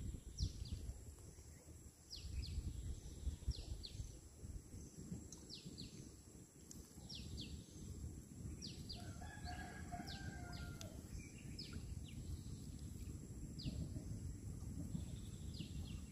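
A bird gives short, high, falling chirps about once a second over a steady low rumble, with a brief lower call near the middle.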